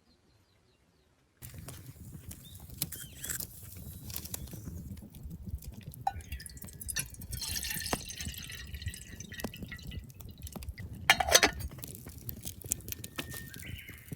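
About a second and a half in, a steady low rumble begins, with small clinks and knocks and liquid dripping and pouring. A few louder knocks come about eleven seconds in.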